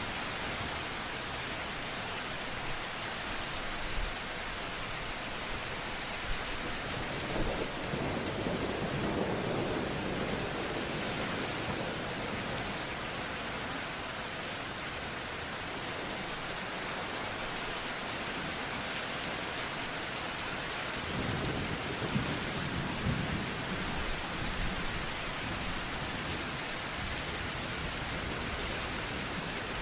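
Steady rain falling, with two low rolls of thunder: one about a quarter of the way in and another past two-thirds of the way through.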